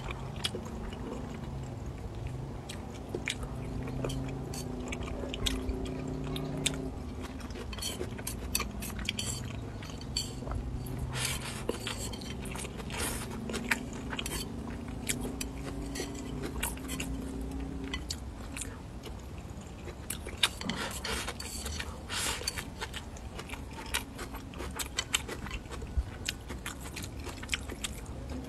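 Close-up chewing and mouth sounds of someone eating rice and pork, with many small wet clicks throughout. Wooden chopsticks tap against a ceramic bowl now and then. A low hum-like tone comes and goes in the first few seconds and again around the middle.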